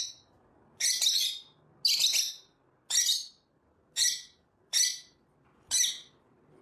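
A parrot giving a string of short, shrill squawks, about one a second, seven in all.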